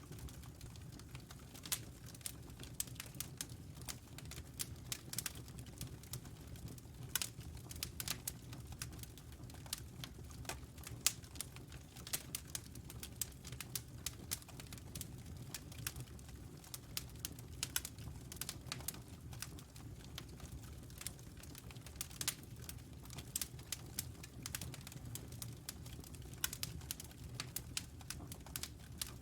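Wood fire crackling in a fireplace: irregular sharp pops and snaps, several a second, over a low steady rumble from the burning logs.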